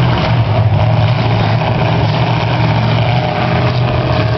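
Demolition derby cars' engines running loud and steady at low revs as the cars drive slowly around the dirt arena.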